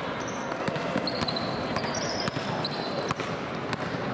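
A basketball bouncing on a gym floor in irregular thuds over the background chatter of a crowd, with a few short high squeaks.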